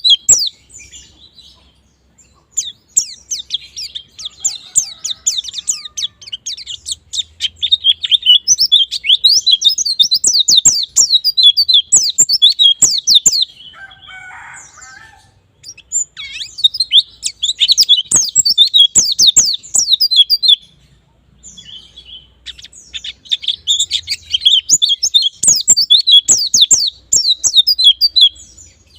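White-eye (pleci) singing: long bursts of rapid, high twittering, with a few short pauses between bursts. This is a 'ngalas'-style lure song, used to prompt captive white-eyes to sing.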